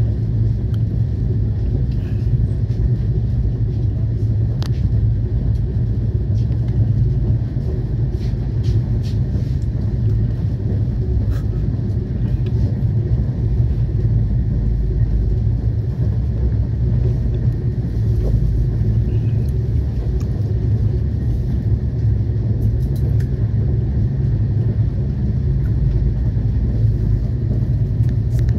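Steady low rumble of a moving passenger train heard from inside the carriage, its wheels running on the rails, with a few faint clicks scattered through it.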